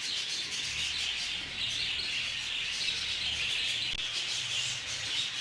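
A flock of budgerigars chattering and chirping together, a steady dense twittering.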